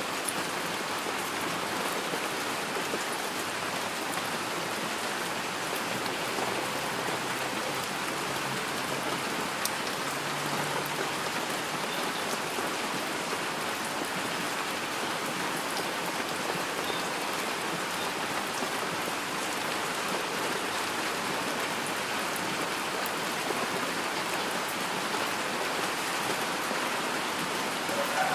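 Steady rainfall, an even hiss of many drops that does not build or fade.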